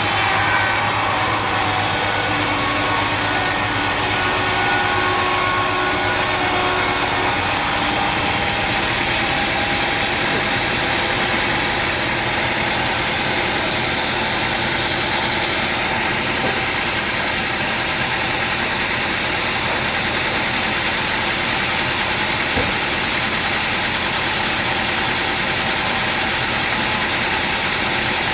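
Sawmill machinery running steadily between cuts, a continuous engine-like drone with no sawing into wood. A few faint held tones die away in the first several seconds.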